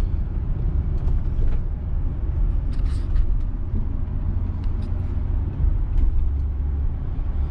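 Inside the cabin of a 1968 Cadillac Calais under way: its 472 V8 and road noise make a steady low rumble, with a few faint ticks.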